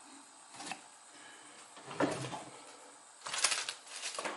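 Small parts and tools being handled on a workbench: a few separate clicks and knocks, then a short clattering rattle about three seconds in.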